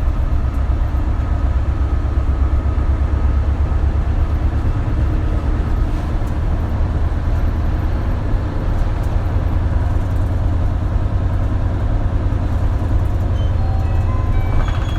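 Isuzu Erga city bus (KL-LV280L1) under way, engine and road noise heard from inside the cabin as a steady low drone.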